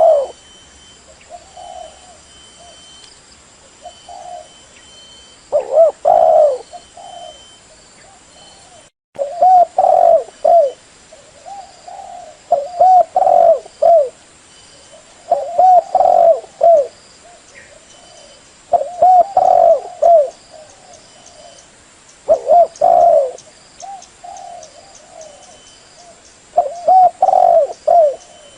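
Spotted dove cooing: about seven low phrases of two to four coos each, repeated every few seconds. It is a decoy call played to lure wild spotted doves to a trap.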